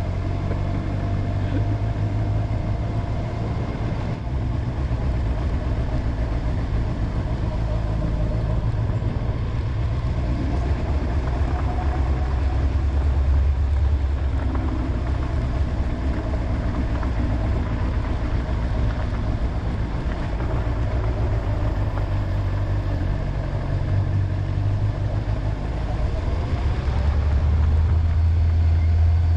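Honda motorcycle engine running steadily on the move, a continuous low rumble that swells slightly twice.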